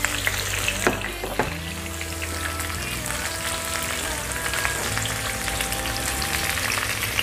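Hot oil sizzling in a wok as sliced shallots, lemongrass, lime leaves and galangal sauté, with a spatula stirring them and giving scattered light scrapes and taps against the pan.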